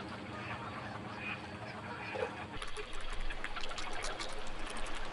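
Ducks on the water: splashing and dabbling with a few faint calls. The splashing grows busier about two and a half seconds in.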